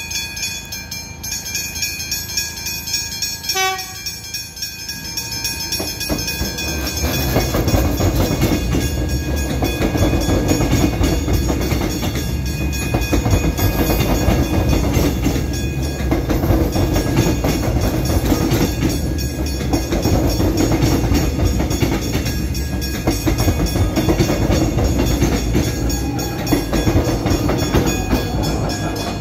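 X'trapolis electric suburban train arriving through a level crossing, with the crossing bells ringing. A short horn blast comes about three and a half seconds in. From about seven seconds the train's wheels and motors swell into a loud, steady rumble as the carriages run past close by.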